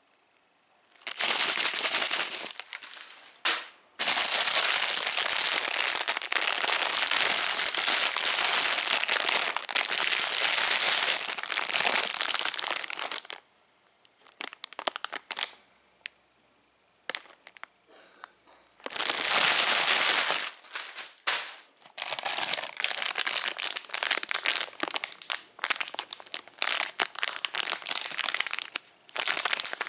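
Plastic candy wrappers crinkling and rustling as they are handled, in long dense stretches, with a lull of about five seconds midway and choppier bursts afterwards.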